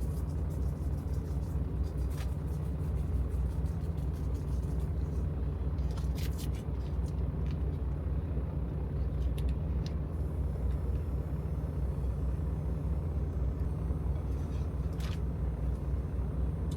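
Semi truck's diesel engine idling steadily, a low rumble heard from inside the cab, with a few faint clicks over it.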